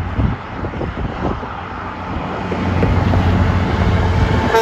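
Road traffic passing: a heavy truck's engine and tyre rumble, growing louder in the second half.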